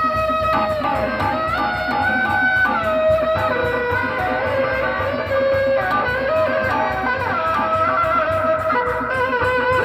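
Live Sundanese benjang accompaniment music: a held melody that slides and ornaments between notes, over a steady drum beat.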